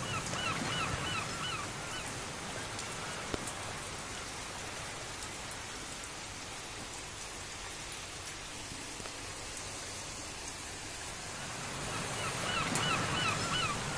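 Rain falling steadily onto floodwater, with scattered drop ticks. A quick run of about six short repeated calls cuts through just after the start and again near the end.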